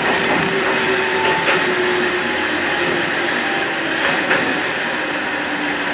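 Toyama Chihō Railway 14760 series electric train running along the track: a steady rumble with faint tones that slowly fall in pitch. A few sharp rail clicks come about a second and a half in and again about four seconds in.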